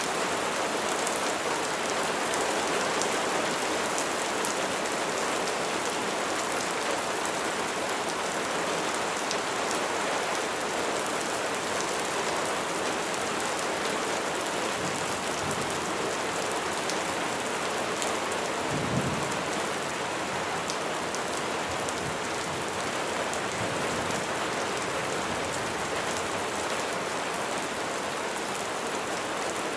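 Steady heavy rain pattering on a surface, with a short low rumble of thunder about two-thirds of the way through.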